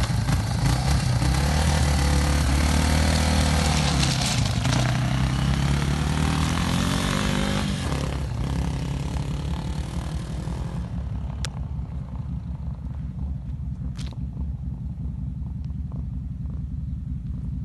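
Dirt bike engine revving and pulling away, its pitch rising as it accelerates, then fading into the distance about eight seconds in, leaving a faint low rumble.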